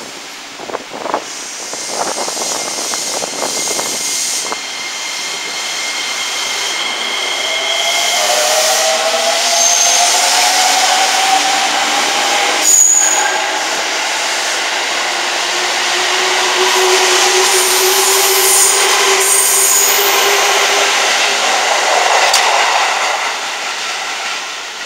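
A JR electric commuter train pulling out of the station: its motors whine in tones that rise as it gathers speed, with wheel and rail noise building as the cars pass. There are short high wheel squeals and a sharp knock about 13 seconds in.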